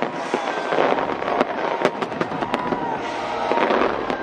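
Fireworks display: many sharp bangs and crackles in quick, irregular succession over a continuous rumbling haze of bursts.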